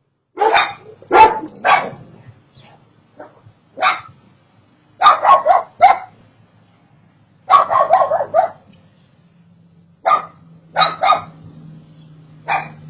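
A small dog barking repeatedly in short runs of a few barks each, with brief pauses between the runs.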